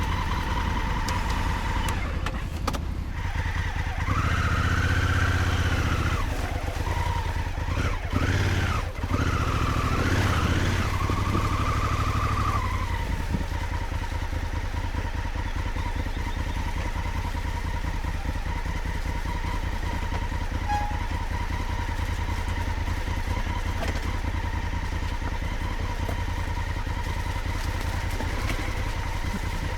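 Honda Africa Twin motorcycle engine running: revved up and down a few times from about 4 to 12 seconds in, then settling to a steady idle.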